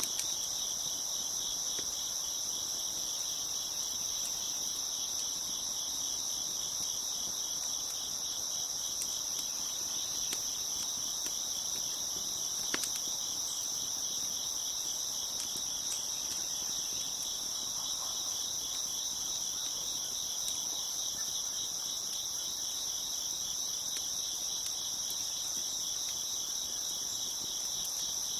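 Dense, steady chorus of crickets chirping, with a few faint pops from a crackling wood fire, one sharper pop about halfway through.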